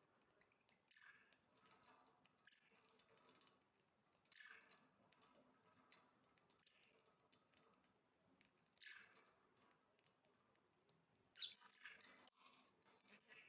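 Faint clicking and scratching of a pet parrot playing with a toy, with a few short, louder rasping bursts spread through it, the loudest near the end.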